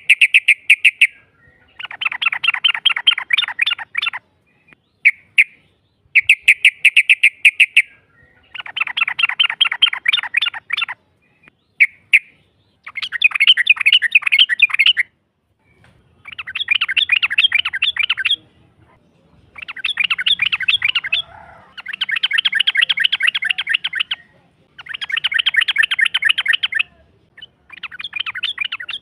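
Yellow-vented bulbul (trucukan) giving long rolling chatter calls: about eleven bursts of fast, evenly repeated notes, each lasting one to two and a half seconds, with short pauses between.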